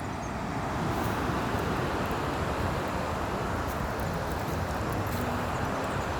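Waterfall rushing steadily, running high after a lot of rain; the rush gets a little louder about a second in.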